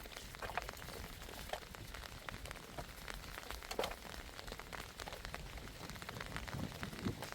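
Rain falling, an even hiss with many scattered sharp taps of drops striking nearby surfaces.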